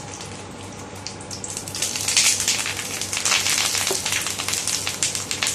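Banana-leaf-wrapped fish parcel frying in hot coconut oil in a pan: a steady sizzle with fine spitting crackles, quieter at first and getting louder about two seconds in.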